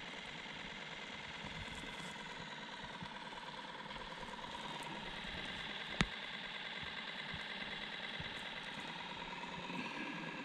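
A small boat's motor running steadily, with one sharp click about six seconds in.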